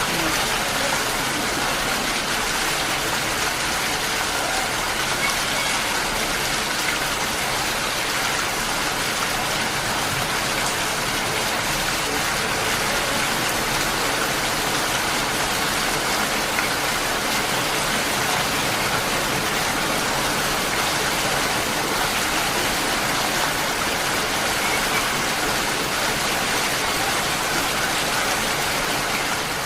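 Heavy monsoon rain falling steadily, an even hiss that does not let up.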